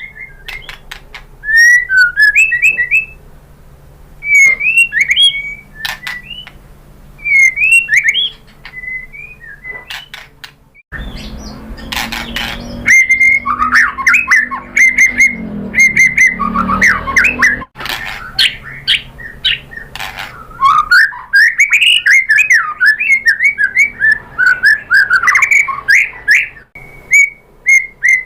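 White-rumped shama singing: varied, loud whistled phrases mixed with sharp clicks, broken by pauses at first and then running on almost without a break. A low hum sits under the song for a few seconds in the middle.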